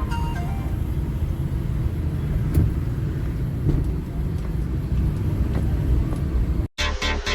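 Low steady rumble of a vehicle driving on the road, with one sharp knock about two and a half seconds in. Near the end the sound cuts out briefly and electronic music with a steady beat starts.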